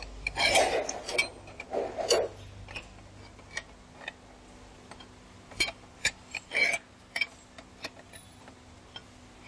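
Scattered sharp metallic clicks and a few louder knocks from hand tools on a truck's rear differential while its ring gear adjusters are tightened.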